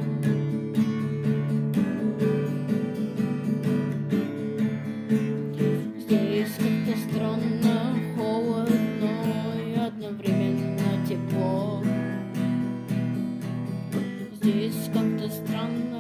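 Instrumental rock passage: strummed guitar chords over a steady drum-machine beat, with a lead guitar melody coming in about six seconds in.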